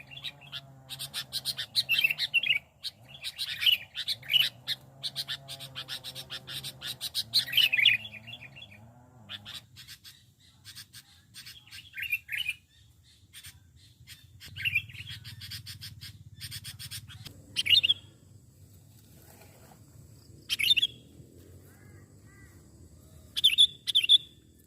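Sooty-headed bulbul (kutilang) calling: fast chattering phrases about every two seconds at first, then thinning to a few short, scattered calls.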